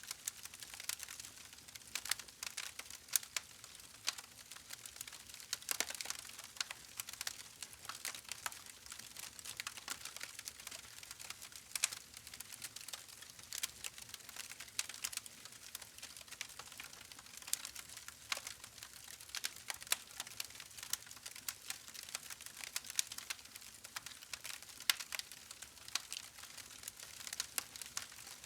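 Campfire burning with irregular sharp crackles and pops over a soft steady hiss.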